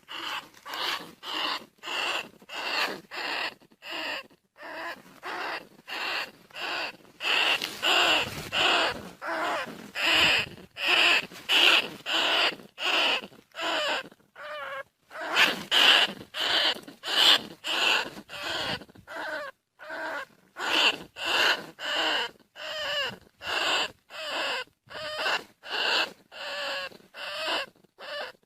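Bandicoot rat calls: short, high squeaks repeated evenly, just under two a second, used as a lure call to draw the rats in.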